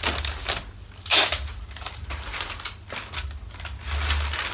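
Masking paper crinkling and crackling as it is folded and looped over to form a back-masking tunnel, with a louder crackle about a second in.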